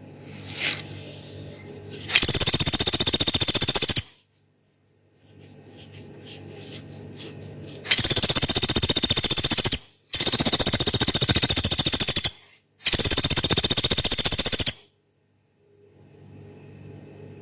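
Pelatuk beras, a small woodpecker, giving long, harsh, very rapid rattling calls: four rattles of about two seconds each, the second and third almost back to back. A faint steady low hum sits underneath in the gaps.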